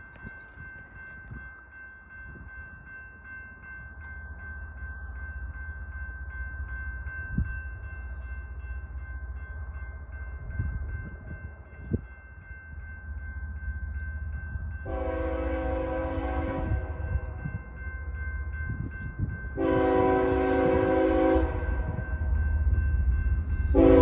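An approaching BNSF diesel locomotive: its low rumble grows steadily louder, then its chime air horn sounds two long blasts of several notes at once, with a third blast starting right at the end.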